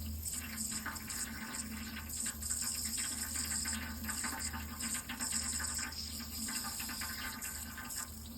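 Water running steadily in a continuous flow, with a steady low hum underneath.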